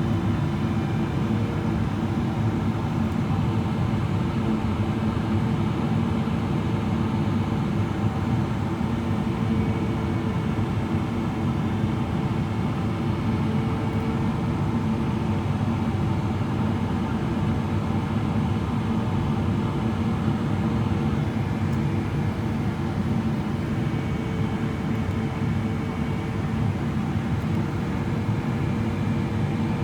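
Steady cabin noise inside a Boeing 777-300ER on approach: the rush of airflow and the hum of its GE90 engines, with a faint held tone that wavers slightly in pitch.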